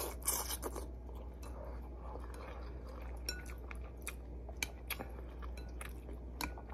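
Close-up chewing of a mouthful of ramen noodles, with scattered small clicks from the mouth or utensils, over a steady low hum.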